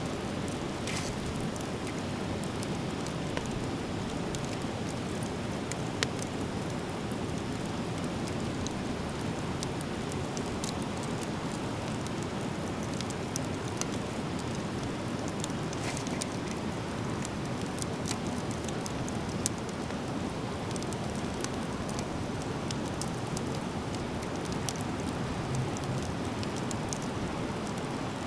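Driftwood campfire burning, crackling with scattered sharp pops over a steady rushing hiss.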